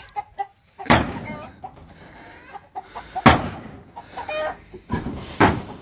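Chicken squawking and clucking: three loud, sudden squawks roughly two seconds apart, each trailing off into softer pitched clucks.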